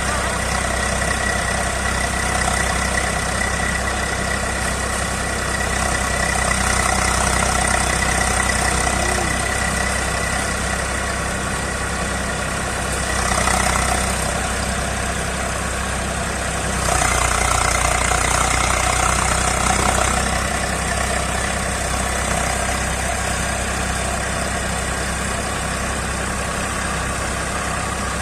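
Eicher 380 tractor's diesel engine running steadily during paddy threshing, with two louder, rougher stretches about halfway through.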